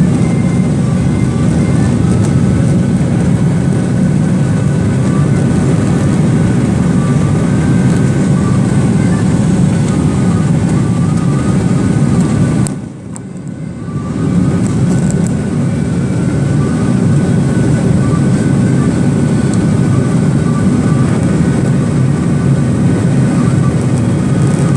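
Steady cabin noise of a Boeing 737-800 in flight: its CFM56 turbofan engines and the airflow past the fuselage make a dense, deep rush with faint steady tones running through it. Near the middle the sound suddenly drops away for about a second, then returns.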